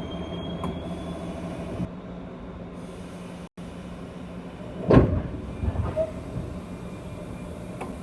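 JR West 201 series electric train running, heard from inside a motor car: a steady running rumble with a low hum. About five seconds in there is a loud clatter that falls in pitch, then two smaller knocks.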